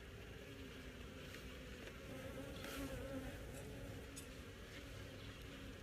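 A colony of honeybees buzzing around an opened hive: a faint, steady hum with a wavering pitch, swelling slightly about halfway through.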